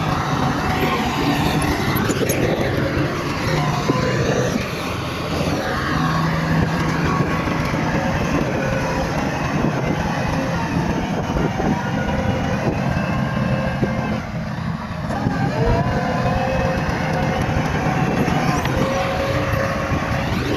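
Bulldozer's diesel engine running steadily under load, its pitch rising again after a brief dip about three-quarters of the way through.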